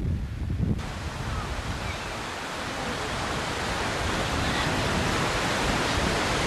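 Rushing floodwater, a steady dense hiss that slowly grows louder. It starts abruptly under a second in, cutting off wind buffeting the microphone.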